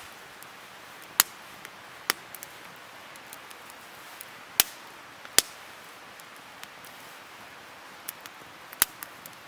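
Campfire of burning firewood crackling: a steady soft hiss with sharp pops as the wood bursts, the loudest pops about a second in, twice in the middle, and once near the end.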